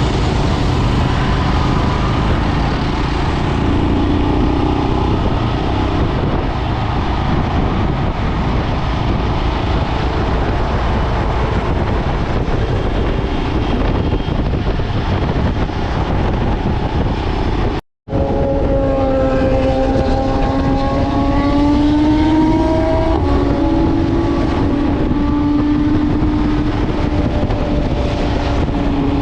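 Motorcycle engine running while riding, under a steady rush of road and wind noise. After a brief cut about two-thirds of the way through, the engine note rises and falls with changes in speed.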